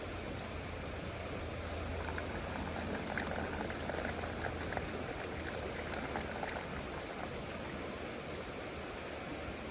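Liquid bubbling and spitting as it cooks over a wood fire, with a steady hiss and many small pops that come thickest in the middle of the stretch.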